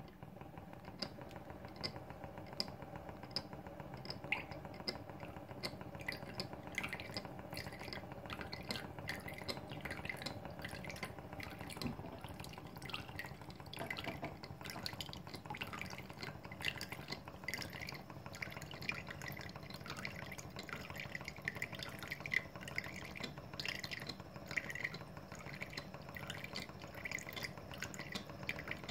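Model Stirling engine running and driving a small Pericaud toy water pump, which splashes and drips water into its basin in a regular rhythm of about two strokes a second over a steady mechanical hum.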